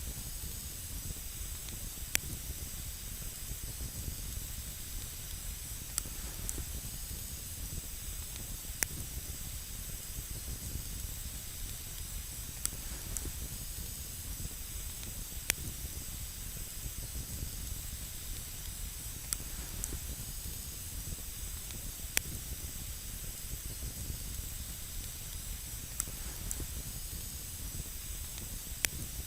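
Wood campfire burning with a steady hiss and a low rumble, broken every few seconds by a single sharp crackle or pop from the burning wood.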